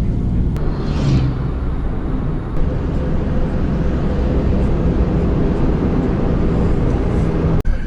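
Steady low rumble of a car driving: engine and road noise, with brief sharp breaks near the start and near the end.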